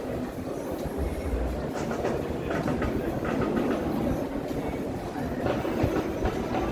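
Steady rumbling roar of aircraft flying over during an air show.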